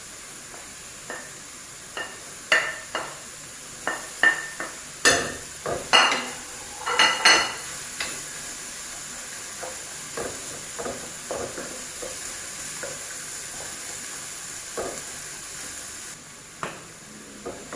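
Minced pork, long beans and baby corn sizzling in a hot pan while a spatula stirs and scrapes through them. A run of sharper spatula clanks against the pan comes in the first half, then lighter scrapes.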